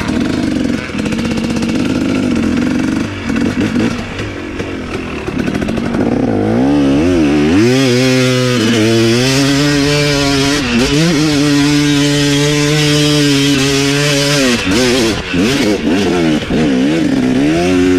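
Dirt bike engine under hard throttle on a hill climb. It runs lower and unevenly for the first several seconds, rises in pitch about six seconds in and holds at high revs for about six seconds, drops off sharply about fourteen seconds in, then gives short throttle blips near the end.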